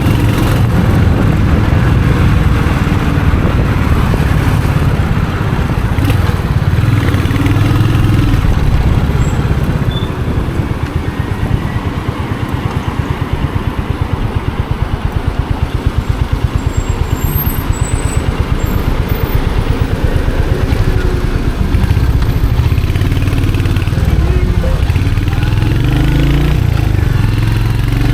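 Royal Enfield Hunter 350's single-cylinder engine and exhaust running on a street ride, with a steady low thumping beat. About ten seconds in it drops to a quieter, even thump for several seconds, then picks up again in the last few seconds.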